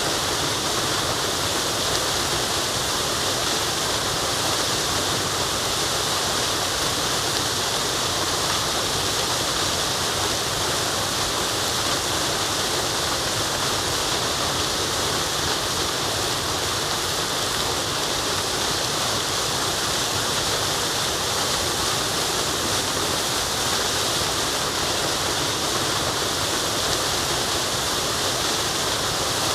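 Waterfall: a steady rush of falling water, an even bright hiss that never changes in level.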